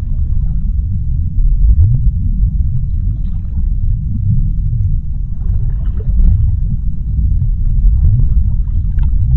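Deep, steady underwater rumble of a sea-bottom ambience, with low swells that rise briefly in pitch a few times and faint crackling above.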